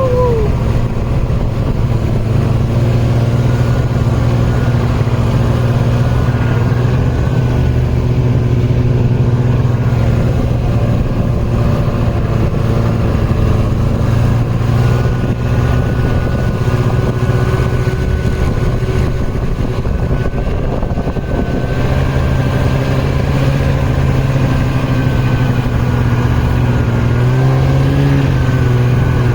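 A motor vehicle's engine runs at a steady pitch while the vehicle is under way. Near the end the pitch rises a little.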